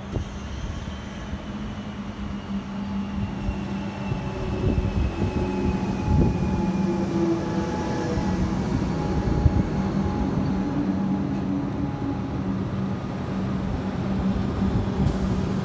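Electric suburban train pulling into a station platform and slowing, its running noise growing louder as the carriages come alongside. A steady hum underneath and a thin whine that falls slowly in pitch as the train slows.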